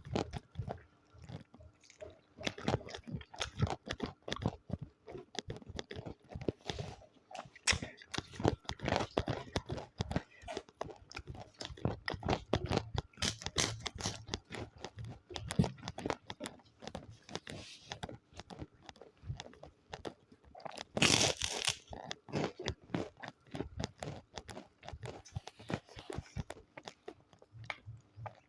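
Close-miked eating: steady chewing and crunching, with many small irregular clicks and one louder, brief noisy burst about 21 seconds in.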